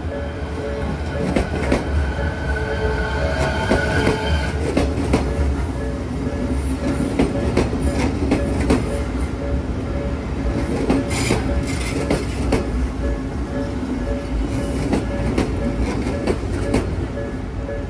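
Odakyu Line commuter electric train running close past the level crossing, its wheels clattering rhythmically over the rail joints and crossing. The level-crossing alarm bell dings steadily over it the whole time.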